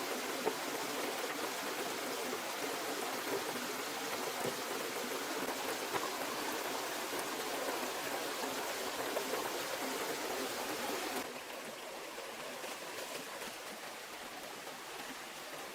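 Steady rushing water noise, even and without rhythm. About eleven seconds in it suddenly becomes quieter and less hissy.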